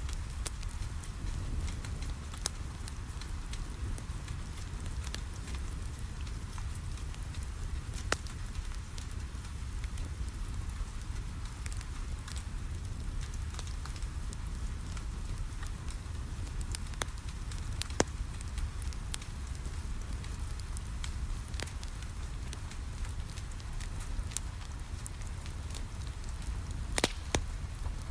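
Wood fire crackling in a fireplace, with scattered sharp pops, the loudest about two-thirds of the way through and near the end, over a steady hiss of rain and a low rumble.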